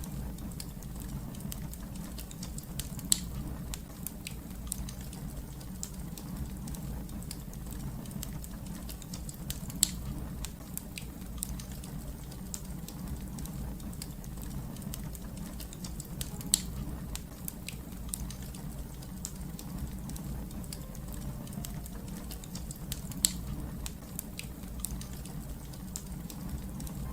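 Wood fire crackling in a fireplace: a steady low rumble with constant small crackles and four louder pops at even intervals of about seven seconds.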